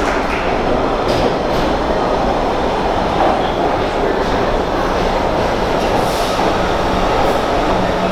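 Rail transit train running on the tracks: a loud, steady rumble of wheels on rail with a few light clacks.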